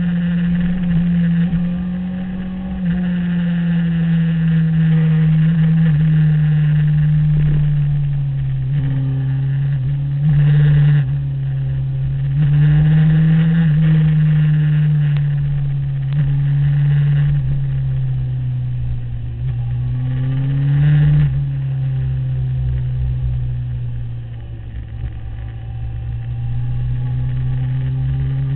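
Sport motorcycle engine running hard at track speed, heard from the bike itself, its pitch slowly falling and rising with the throttle through the corners, with wind rush over the bike. It swells louder briefly twice, about ten and twenty-one seconds in.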